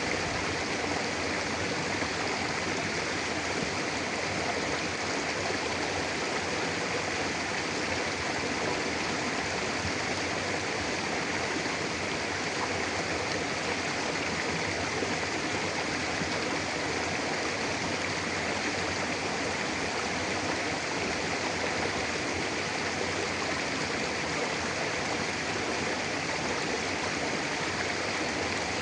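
Clear mountain river flowing steadily over rocks: a continuous, even rushing of water.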